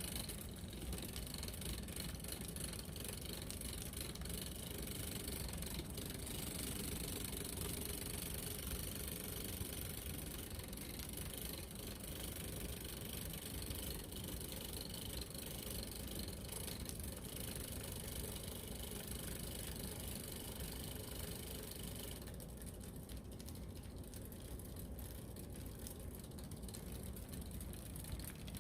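Bengal cat purring, a steady low rumble that runs on without a break.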